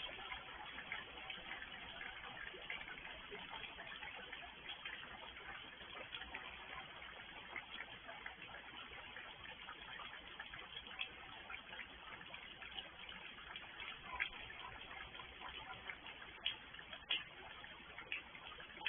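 Steady rain falling, a faint even hiss with scattered sharp drops ticking, a few louder drips near the end.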